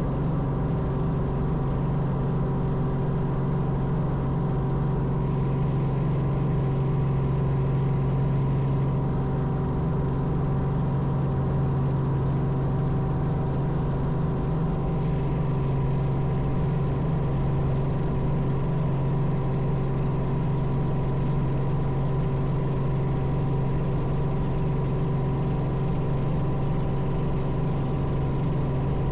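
Robinson R44 helicopter running steadily: a constant drone with a strong low hum and a few higher steady tones that stay unchanged throughout.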